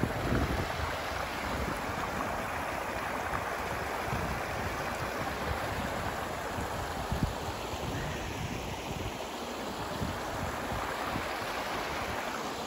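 Steady rush of river water spilling over low sandstone ledge falls.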